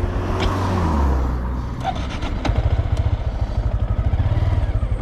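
Motorcycle engine running under the rider. Its pitch falls over the first second or so as it slows, then it settles into lower, steady running with a pulsing beat and a few light clicks.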